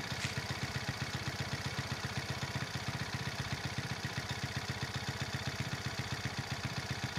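1988 Honda Monkey's small single-cylinder four-stroke engine idling steadily through an OUTEX T2 aftermarket muffler with aluminium silencer, its exhaust beat a fast, even pulsing.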